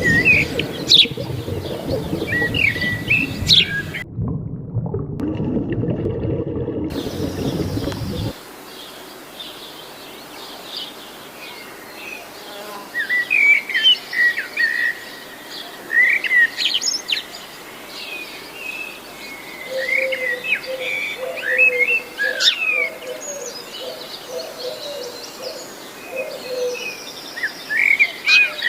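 Birds chirping and calling in short whistles throughout. For the first eight seconds a dense low noise runs underneath and then cuts off suddenly. From about 20 to 26 seconds a lower warbling call runs under the chirps.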